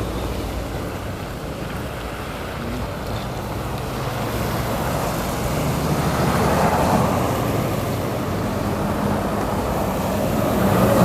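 City street traffic: vehicle engines running, with one vehicle passing close and louder about six to seven seconds in.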